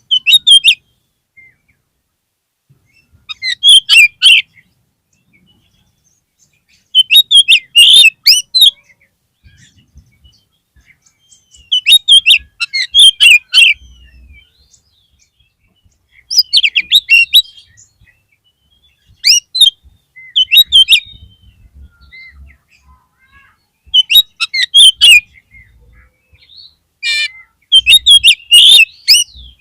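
Oriental magpie-robin (kacer) singing: about eight short phrases of quick, varied whistled notes, each a second or two long, coming every three to four seconds with silence between.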